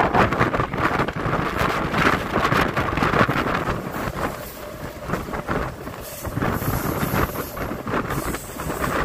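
Wind buffeting the microphone held out of the open doorway of a moving MEMU electric train, over the rumble of the coach running along the track. It is loudest in the first few seconds and eases a little about four seconds in.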